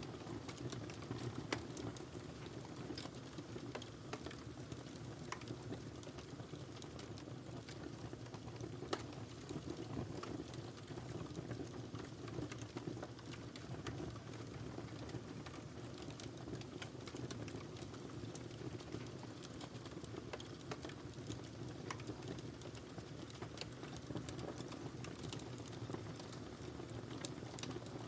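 Wood fire burning in a fireplace: a steady low rumble of flames with frequent irregular crackles and pops, a few of them sharper than the rest.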